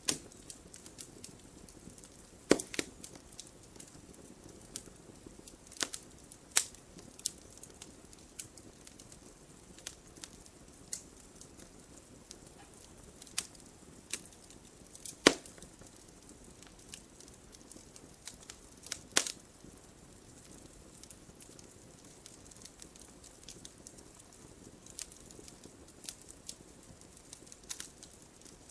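Wood logs burning in a fireplace, crackling with irregular sharp pops over a faint low rush of the flames; a handful of pops stand out louder than the rest.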